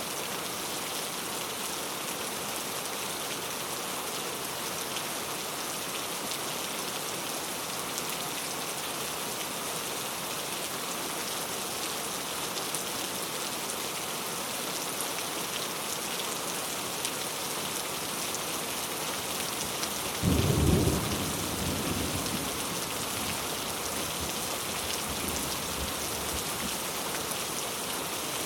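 Heavy rain falling steadily, with a sudden clap of thunder about twenty seconds in that rumbles and fades away over several seconds.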